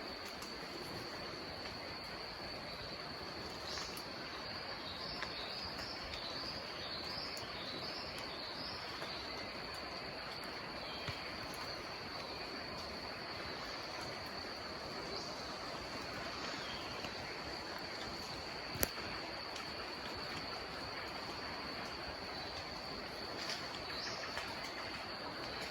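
Rainforest dusk ambience: a steady, high-pitched insect drone, with a run of short bird chirps a few seconds in. A single sharp click comes about two-thirds of the way through.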